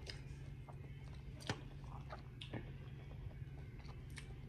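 Close-up eating sounds: chewing and biting on seafood, with scattered short clicks. The sharpest click comes about one and a half seconds in.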